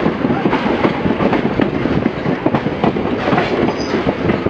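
Heritage passenger train running along jointed track, heard from on board: wheels clattering over rail joints with a dense, uneven clatter of knocks over the running noise of the carriages.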